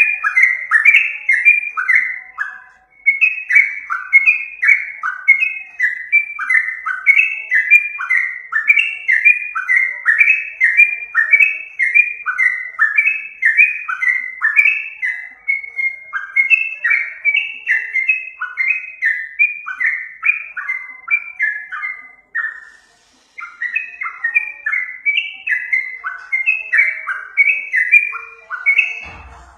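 Yellow-vented bulbul (trucukan) singing: a fast, continuous run of short chirping notes. The song breaks off briefly about three seconds in and again about two-thirds of the way through.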